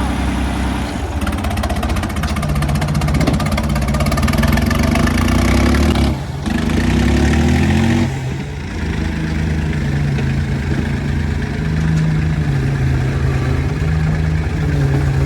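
Diesel tractor engines running hard under load in a tractor tug-of-war, their pitch rising and falling in steps as the throttle changes. The sound dips briefly about six seconds in.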